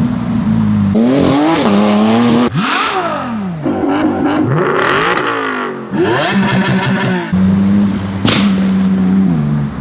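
Porsche 911 GT3 RS flat-six with a custom exhaust, revved from idle several times, the pitch climbing and falling back with each rev. It settles back into a steady idle about seven seconds in, with one quick blip of the throttle near the end.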